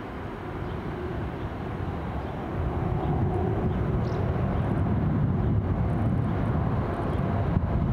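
ICE high-speed electric train passing close by: a steady rumble of wheels on rail, growing louder about two and a half seconds in as the power car and carriages go past.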